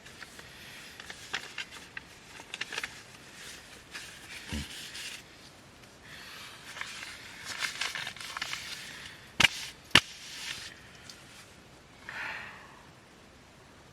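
Quiet rustling and scattered light clicks, with two sharp snaps close together about nine and a half seconds in.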